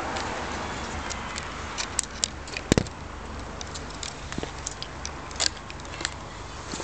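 Mercedes CL55 AMG's supercharged V8 idling through an Eisenmann exhaust with the resonators removed, a steady low rumble. Scattered sharp clicks and crackles sit over it, the loudest about three seconds in.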